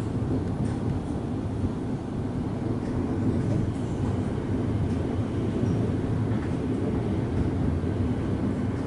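Suburban electric train running along the track, heard from inside the carriage as a steady low rumble of wheels and car body.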